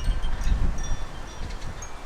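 Outdoor garden ambience: wind gusting on the microphone and rustling leaves, the gust strongest about half a second in, with short high-pitched notes sprinkled over it.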